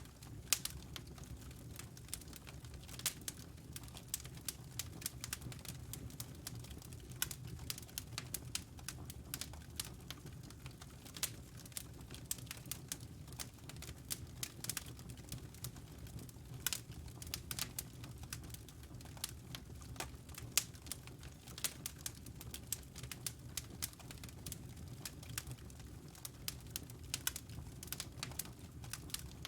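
Fireplace fire crackling, with irregular sharp pops and snaps, several a second, over a low steady rumble.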